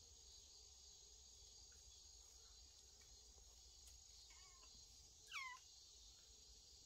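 Steady high-pitched insect chorus, with a faint kitten mew about four seconds in and a louder, short, falling kitten mew about a second later.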